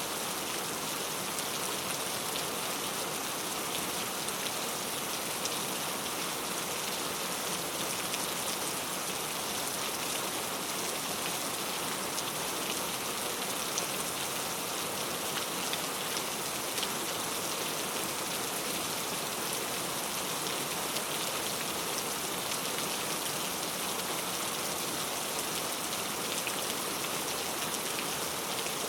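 Steady heavy rain falling, an even hiss with scattered individual drop taps.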